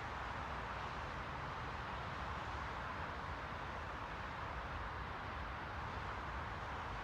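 Steady white-noise hiss, even and unchanging, strongest in the middle range, with a faint low rumble underneath.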